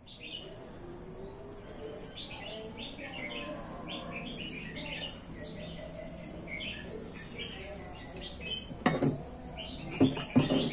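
Small birds chirping over and over in the background, with a few sharp knocks near the end.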